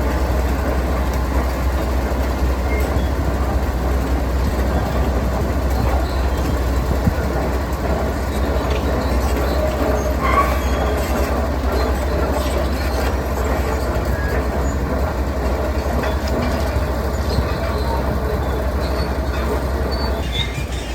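Heavy diesel construction machinery running steadily, with a strong low rumble.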